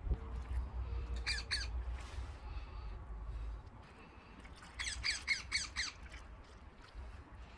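A bird squawking: two short harsh calls about a second in, then a quick run of about six more near the middle. A low rumble sits under the first few seconds.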